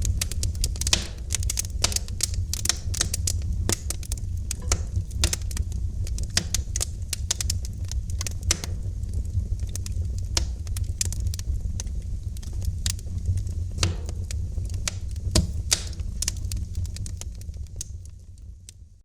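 Wood fire crackling in a fireplace: many sharp, irregular pops and snaps over a steady low rumble of the flames. The sound fades out near the end.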